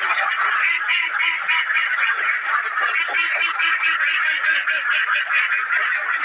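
A flock of caged ducks quacking continuously, many short calls overlapping into a steady loud chorus.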